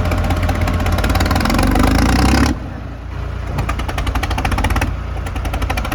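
Diesel tractor engine working hard under load, its note rising, then dropping off abruptly about two and a half seconds in. It keeps running after that with a fast, even clatter.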